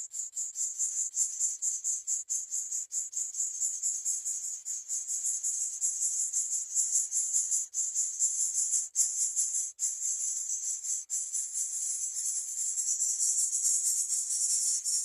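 Chorus of insects giving a high, continuous buzzing trill that pulses rapidly throughout.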